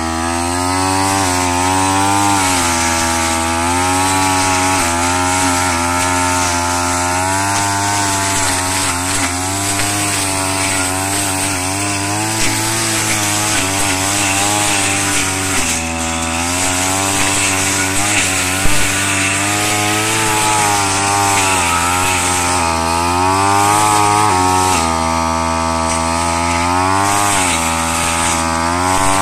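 Petrol brush cutter running at working speed, its engine pitch dipping and recovering again and again as the blade cuts through rice straw. A few sharp clicks come through around the middle.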